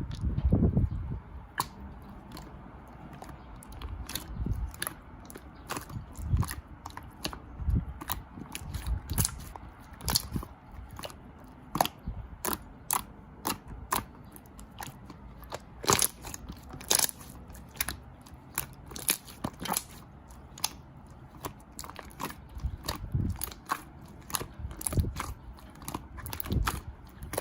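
Shine Muscat grapes being bitten and chewed: irregular crisp crunches and wet clicks, with occasional soft low thumps.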